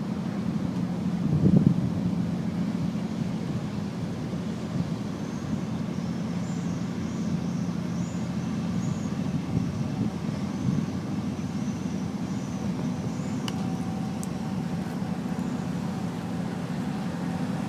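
Steady low engine drone with a brief swell about a second and a half in.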